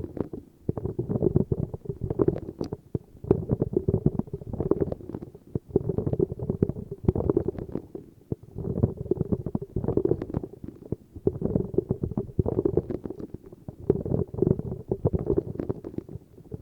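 Rapid close-up ASMR tapping in bursts of about a second with short pauses between them. The taps are dull and low, with little treble.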